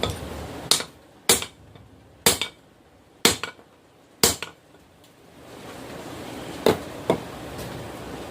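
Hammer blows on hot steel at the anvil: five sharp, ringing strikes about a second apart, then two more close together after a steady rushing noise comes up past the halfway point.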